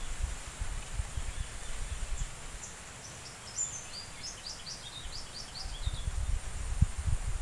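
Outdoor ambience with low, gusting wind rumble on the microphone, stronger near the start and end. About two seconds in, a songbird sings a quick run of short, high chirping notes for a few seconds, over a faint steady high hiss.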